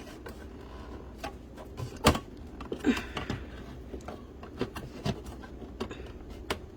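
Hard plastic clicks and knocks as a hinged plastic door is worked into place in a foldable plastic cat litter box. The loudest knock comes about two seconds in, with several smaller clicks after it.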